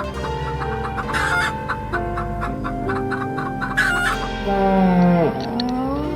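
Domestic chickens calling over background music: two short harsh clucks, then a loud drawn-out call that falls steeply in pitch, like the tail of a rooster's crow.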